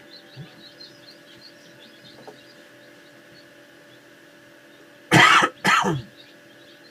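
A person coughs twice, loudly, about five seconds in. Under it, faint high cheeps come from a chick inside its hatching egg, over a steady hum.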